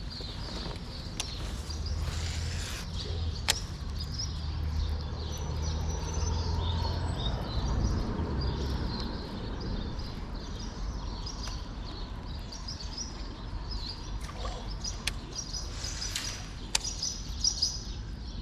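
Small birds chirping over a steady low rumble, with a few sharp clicks.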